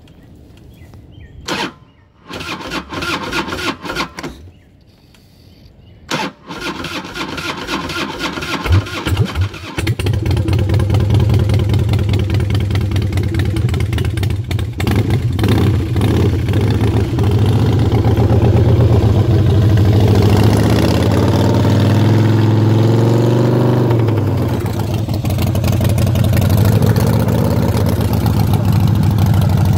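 1997 Night Train motorcycle cold-started on choke after sitting over a month: the starter cranks it in two goes with a short pause between, and it catches on the second about ten seconds in. It then runs at a choked cold idle, the revs swelling and falling back once before settling.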